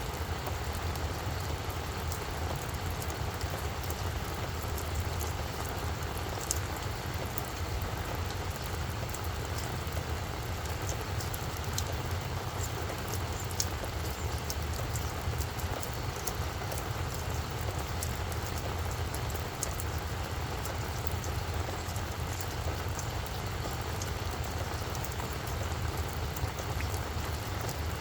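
Steady rain falling on a flower bed, with many scattered sharp drip ticks over a continuous patter and a steady low rumble underneath.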